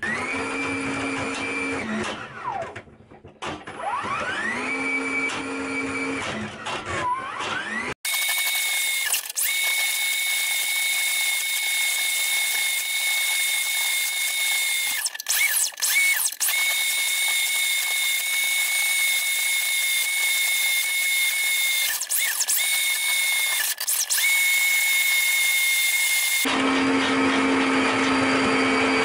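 Powered drain snake's motor whining as it drives the cable into a blocked sink drain, spinning up and down in short runs with the pitch rising and falling, then running steadily with a few brief stops. The blockage is one the plumber takes for old cast iron pipe packed solid with rust.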